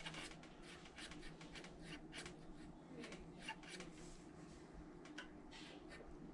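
Faint, scattered light clicks and rubbing from small engine parts and tools being handled while a rocker arm is set in place, over a faint low hum.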